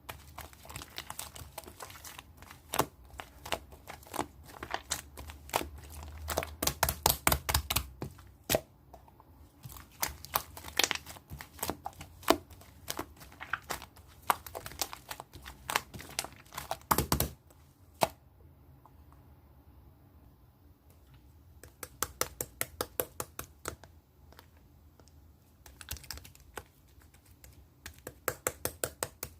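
Slime being squeezed and kneaded by hand, making quick runs of sticky clicks and pops in bursts, with a quiet pause of a few seconds past the middle.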